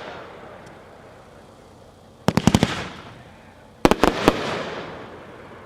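Magnus 'Sky Crisis' consumer firework cake firing: two volleys of several quick, sharp bangs about a second and a half apart, each dying away afterwards.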